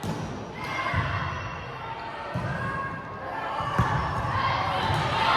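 Volleyball thudding in an echoing gym: a few dull bounces or hits and one sharp smack nearly four seconds in. Players' and spectators' voices run underneath and grow louder near the end.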